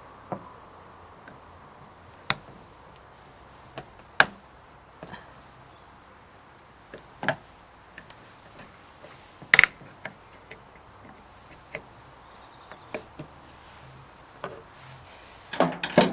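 Irregular sharp clicks and knocks, a dozen or so, from hand work on a car's door mirror. Tools and plastic trim tap and click, with the loudest knocks about four and nine and a half seconds in and a quick cluster near the end.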